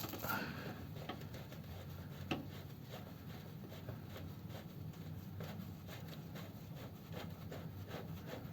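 Faint, irregular light metallic clicks and scrapes of a spanner working a nut loose on the Ford 100E's gearbox rear mount, with one sharper click about two seconds in, over a steady low hum.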